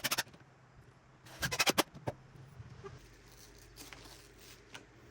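Two quick bursts of sharp clicking knocks, one at the start and a longer run about a second and a half in, then a few single clicks.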